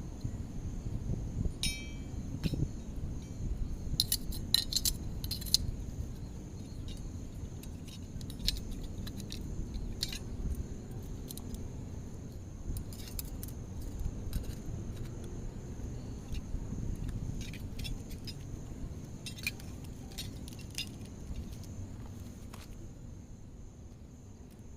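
Scattered light clinks and jangles of small hard objects being handled, most frequent in the first half, over a steady high insect trill and a low rumble.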